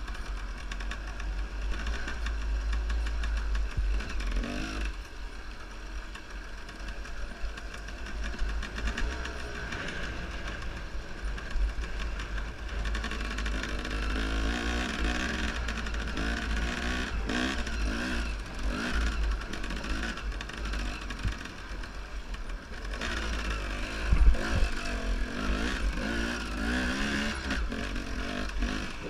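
Enduro motorcycle engine revving up and down as the bike is ridden over forest terrain, over a constant low rumble on the action-camera microphone. A sharp knock comes about 24 seconds in.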